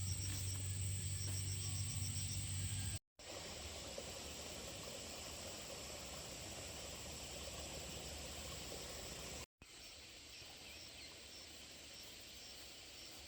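Outdoor rural ambience with insects chirping in a faint, even rhythm, heard over a steady hiss. A low hum runs through the first few seconds, and the sound cuts out briefly twice, about 3 and 9.5 seconds in.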